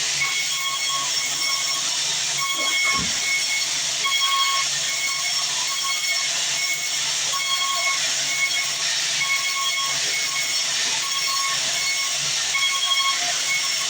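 Sawmill band saw running through a log: a steady loud hiss of cutting with a high tone that keeps breaking off and coming back.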